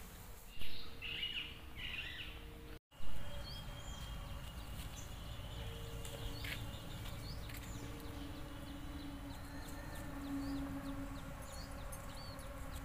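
Small birds chirping now and then in short, high, scattered calls over a steady outdoor background with a faint low hum. There are a couple of brief louder sounds in the first three seconds.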